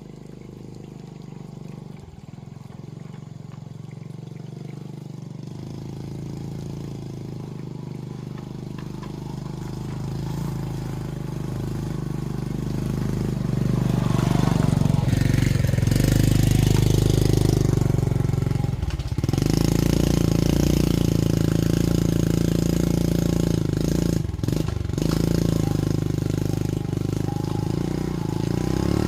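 Motorbike engine running, growing steadily louder over about fifteen seconds and then holding loud. The sound dips briefly twice, at about nineteen seconds and again around twenty-four seconds, as the throttle eases.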